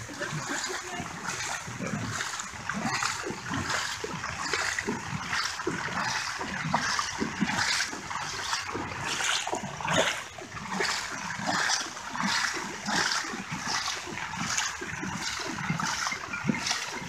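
Feet wading through floodwater, splashing with each step in a steady walking rhythm.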